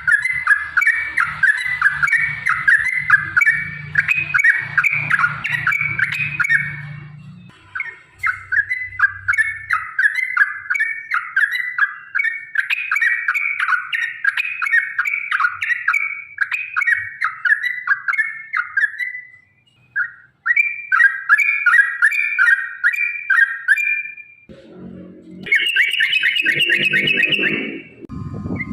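Yellow-vented bulbul (trucukan) singing long, rapid runs of chattering notes, several notes a second, broken by a few short pauses, with a faster, higher run near the end.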